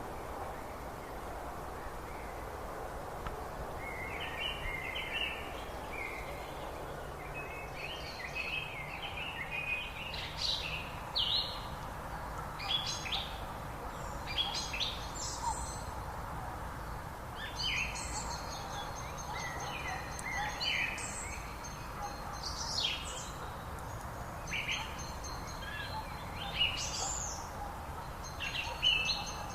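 Songbirds chirping and singing in quick, varied phrases and trills, starting a few seconds in, over a steady background hiss.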